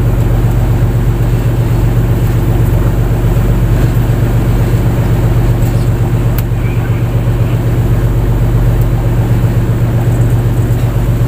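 Fishing boat's engine running loudly at a steady speed, a constant low drone.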